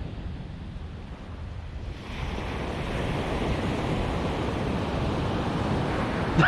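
Ocean surf breaking and washing up the beach, with wind buffeting the microphone; the wash swells louder about two seconds in.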